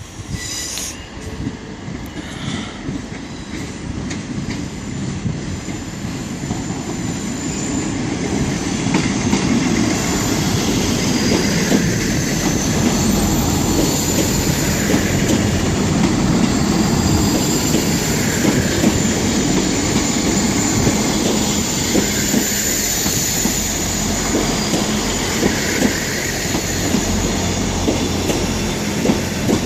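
A six-coach Class 159 diesel multiple unit running into the platform. It grows louder over the first ten seconds and then rolls past steadily, its wheels clicking over the rail joints, with a thin high wheel squeal.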